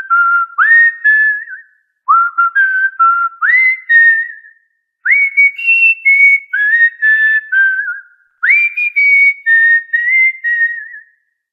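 Cockatiel whistling a tune in repeated melodic phrases. Each phrase opens with a quick upward slide into clear held notes, with short pauses between the phrases.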